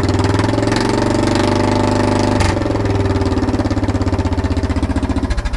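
Lawn tractor engine running loud through an open 1-inch straight pipe, its exhaust pulses clearly separate. It is throttled up to a higher, steadier speed for about two seconds, drops back with a sharp click, and runs at a lower speed until it begins to wind down right at the end.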